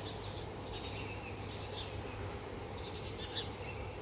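Small birds chirping: short, high chirps scattered through, over a steady low hum.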